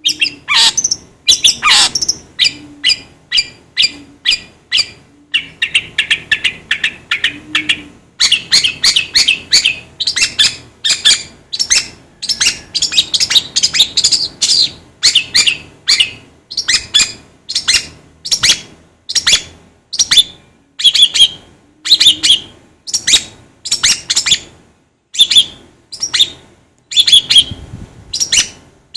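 Long-tailed shrike giving harsh, chattering calls in quick series of sharp notes, several a second with short gaps, with a buzzy trill about five seconds in. Its excited, agitated calling is the sound bird keepers play to get a shrike fired up to sing.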